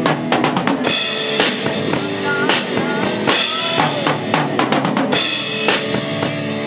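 A band playing with the drum kit to the fore: bass drum and snare strokes over sustained bass and other pitched instruments, with quick runs of drum hits near the start and again about four seconds in.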